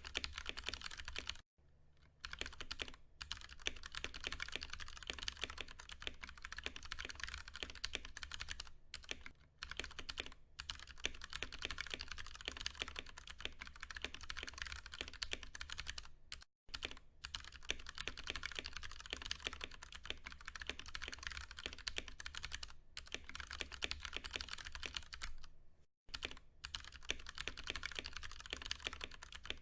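Continuous fast typing on a Ducky One 2 Mini mechanical keyboard with tactile Cherry MX Brown switches: a dense run of key clacks with a few brief pauses, over a faint steady low hum.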